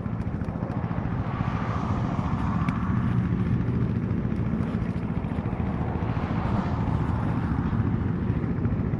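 BMW R1200GS boxer-twin motorcycle engine running with a steady, fast pulsing beat, getting a little louder about two seconds in.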